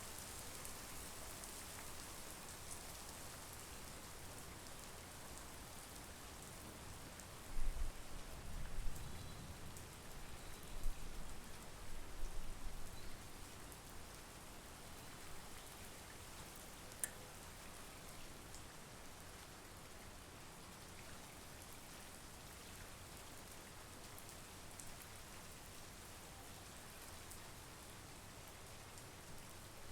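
Steady monsoon rain, an even hiss of falling drops. From about eight to thirteen seconds in, a low rumble comes and goes in uneven bursts and is the loudest thing heard.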